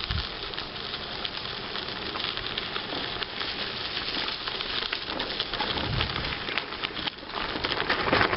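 Bicycle tyres rolling over a crushed-stone towpath: a steady crackling hiss, with a brief dip about seven seconds in.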